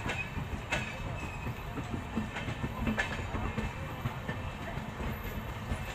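LHB passenger coaches rolling past on the track: a steady rumble of wheels on rail, with a few sharp clicks as the wheels cross rail joints.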